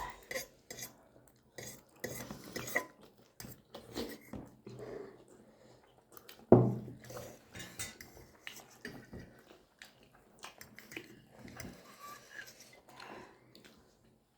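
Cutlery clinking and scraping against plates in irregular short clicks while people eat, with one louder knock about six and a half seconds in.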